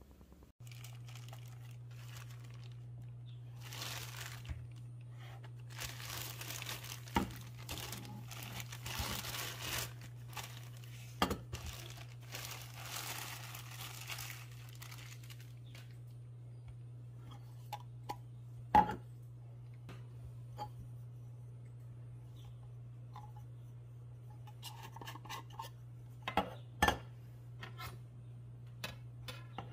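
Crinkling and tearing of thin material during handling of a brass Trangia spirit burner, then a few sharp metallic clinks of the burner and its screw cap set on a table, the loudest a little past halfway and near the end. A steady low hum sits underneath.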